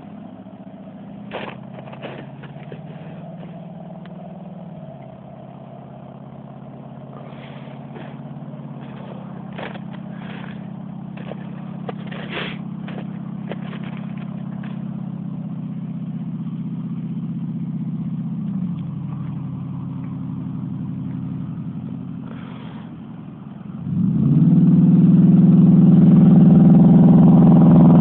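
Ford F-150's 4.6 V8 exhaust, true dual pipes with no catalytic converters, running at a steady low note with scattered light clicks. About 24 seconds in it revs up hard and gets much louder, its pitch rising.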